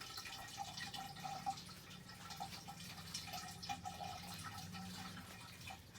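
Faint water dripping and trickling, with a low steady hum underneath.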